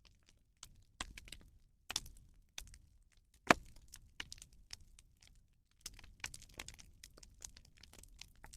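A rubbish bonfire crackling, with irregular sharp pops and one much louder crack about three and a half seconds in.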